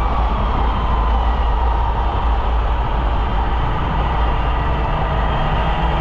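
Polaris Indy snowmobile running at a steady speed on the trail: a continuous engine and track drone over a heavy low rumble, its pitch drifting only slightly.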